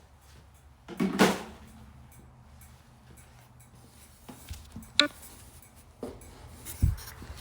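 Scattered handling knocks and clatters, with no engine running: a scraping clatter about a second in, a sharp click about five seconds in, and a low thump near the end.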